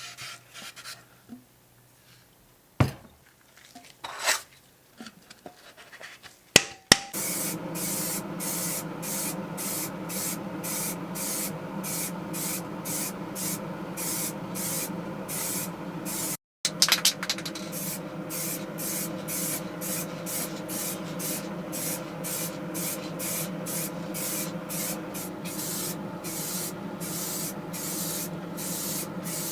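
A few light taps and clicks, then from about seven seconds in a small electric motor runs steadily while a surface is rubbed or sanded in even strokes, about two to three a second, with a brief break around the middle.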